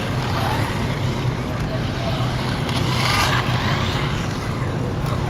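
Busy exhibition-hall din: many people talking at once over a steady low hum.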